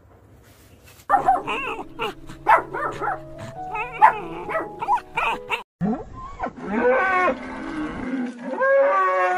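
Animal calls: a quick run of short calls over the first few seconds, then two long, drawn-out moos, the second near the end.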